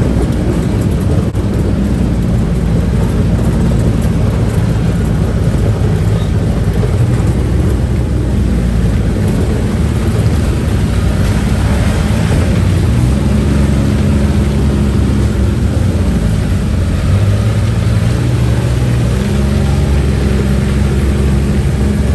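Side-by-side UTV engine running while the vehicle is under way, heard from on board. Its note shifts up and down a few times with the throttle.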